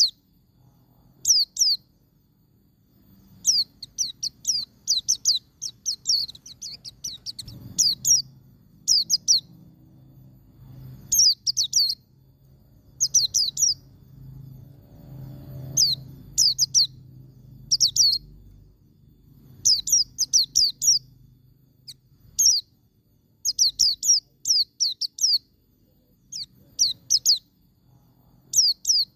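Pleci (white-eye) singing its rapid-fire 'ngalas' song: short clusters of quick, high, falling chirps, repeated every second or two, over a faint low hum.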